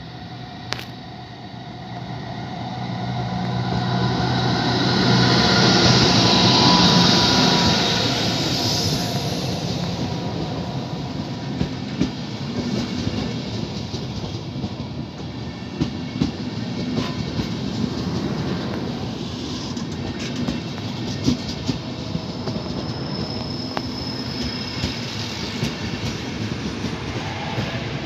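A train rolling over station tracks. Its sound swells to a peak about six seconds in as it passes close, then settles into steady rolling with wheels clicking over rail joints and points. A brief high wheel squeal comes near the end.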